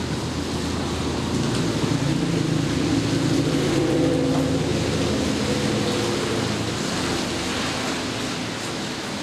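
Steady rain with a motor vehicle passing, its engine hum fading away in the last couple of seconds.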